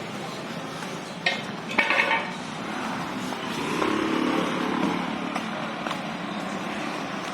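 Busy street ambience with steady vehicle engine noise, and a couple of sharp metallic clinks a little over a second in.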